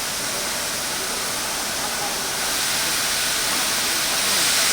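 Steam locomotive venting steam: a steady hiss that grows louder about halfway through and again near the end.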